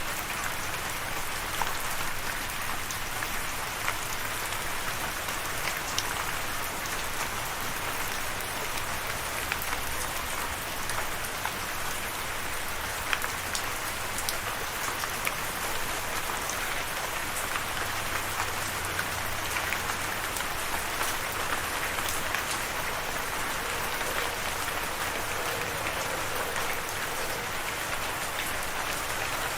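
Steady rain falling: an even hiss with many separate drops ticking sharply through it.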